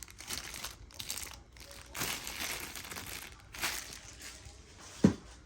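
Packaging crinkling and rustling in uneven bursts as parts are handled out of a shipping box, with one short knock near the end.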